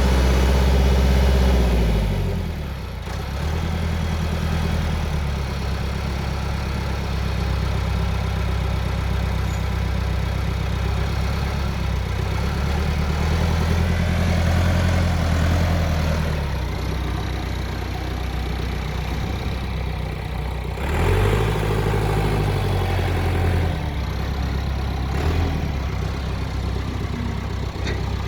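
Massey Ferguson backhoe loader's diesel engine running, its revs dropping to a lower speed about two seconds in, then rising and falling again a few times, most clearly around the middle and about three-quarters through.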